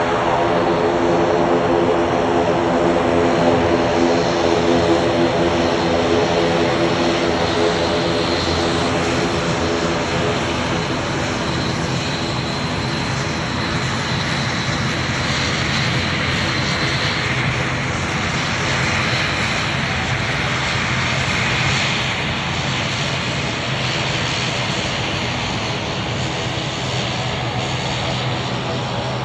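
ATR 72 twin-turboprop engines and propellers running loudly. A strong, even propeller hum stands out over the first several seconds, then fades into a steady, broad engine roar.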